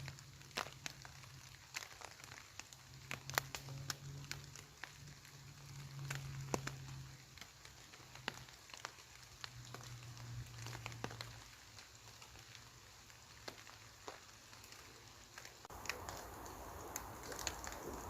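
Campfire crackling: sparse, irregular sharp pops and ticks over a faint hiss, with a short burst of rustling near the end.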